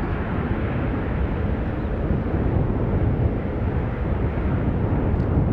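Boeing 777-300ER jet engines as a steady rumble while the airliner arrives to land.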